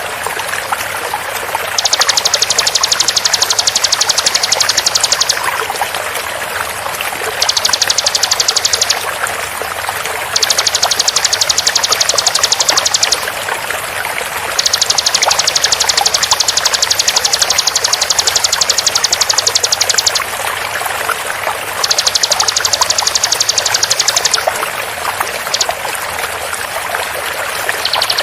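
Bar-winged prinia (ciblek) giving its rapid 'shooting' call: very fast, high trills in about six bursts of one to five seconds each, over a steady sound of flowing water.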